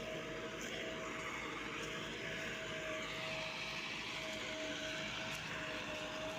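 Diesel tractor engines running hard under load in a tug-of-war pull: a steady drone with a constant whine.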